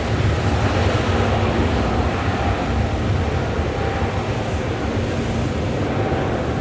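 Jet engine noise from the Boeing 777-200's Pratt & Whitney PW4074 turbofans during departure: a loud, steady, deep rushing sound that eases off slightly toward the end.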